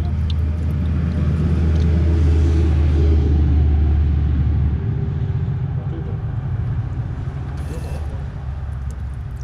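A steady low rumble, loudest in the first half and dropping off sharply about five seconds in, leaving a fainter rumble.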